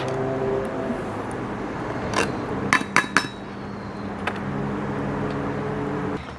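Metal camp cookware clinking: a few sharp clinks in quick succession about two to three seconds in and one more a second later, over a steady low hum.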